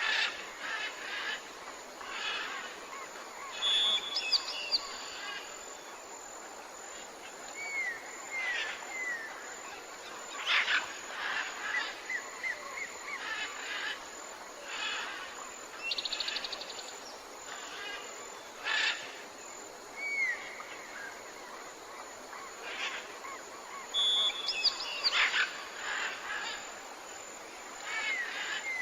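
Tropical forest ambience with several birds calling over a steady background hiss: short down-curving whistles, quick trills and chirps, coming every second or two.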